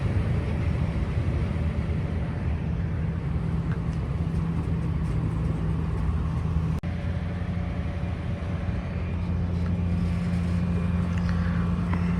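An engine idling steadily with a low hum, with a brief dropout about seven seconds in.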